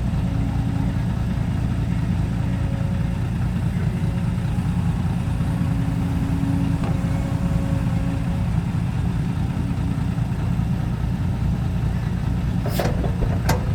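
Dump truck's diesel engine idling steadily, with a low, even hum. Two short, sharp sounds come near the end.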